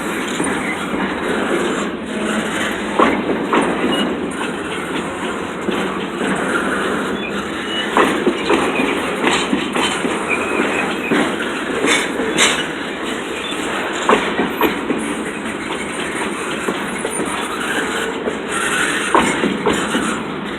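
Freight train cars rolling steadily past, the wheels clicking over the rail joints, with occasional sharp metallic clanks.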